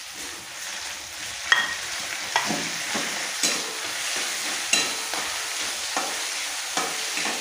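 Onions and ginger-garlic paste sizzling in hot oil in a steel kadai, with a spatula scraping and knocking against the pan about once a second as it stirs.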